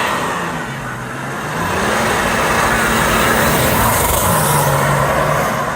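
A modified car's engine revving hard as it launches in a one-wheel peel, a burnout with one driven wheel spinning. The revs climb about two seconds in, hold high, drop back about four seconds in, then rise again near the end.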